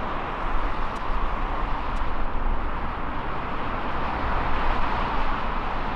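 Jet airliner engine noise: a steady rushing sound with a low rumble underneath.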